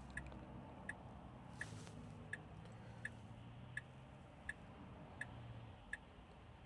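Turn-signal indicator ticking inside a Tesla Model 3's cabin: a faint, steady click about every 0.7 seconds over a low cabin hum.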